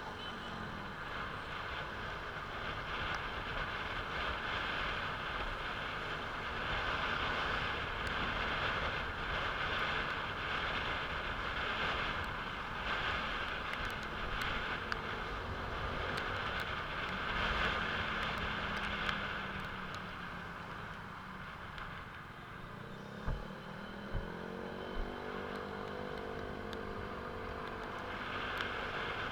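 A motor vehicle running with a steady rushing noise over it. Its engine note rises in pitch in the last third, with a few short knocks as it starts to climb.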